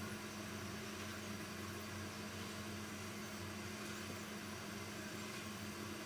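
Steady low hum with an even hiss behind it, unchanging, with no knocks or clicks.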